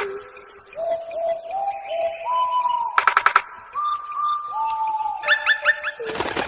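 Several birds calling over one another: a series of held, clear whistled notes at different pitches, a fast rattling trill about three seconds in, and a few quick rising chirps just after five seconds.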